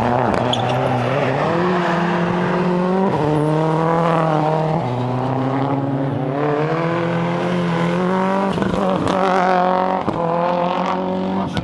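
Rally car engine under hard acceleration, its pitch climbing and then dropping several times as it works through gear changes.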